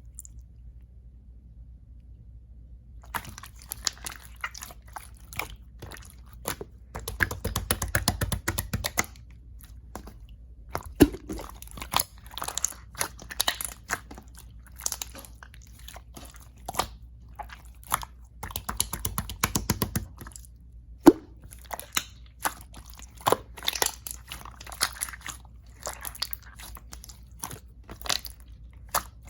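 Clear slime being worked by hand, giving a stream of sticky clicks and pops. It starts about three seconds in, with stretches of rapid crackling around seven and eighteen seconds in.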